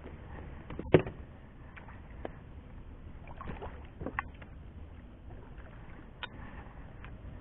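Wind rumbling on the microphone over lapping water, with a sharp knock about a second in and a few fainter clicks and knocks later.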